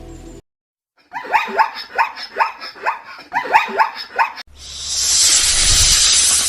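A dog barking in a quick series of sharp, falling yaps, about three a second, followed by a loud, steady hissing noise.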